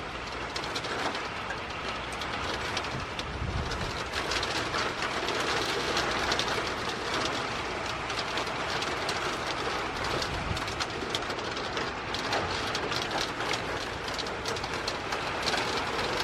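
Thunderstorm wind and heavy rain making a steady rush, with many sharp ticks of drops striking nearby surfaces. Two brief low rumbles of wind buffeting the microphone, a few seconds in and about two-thirds through.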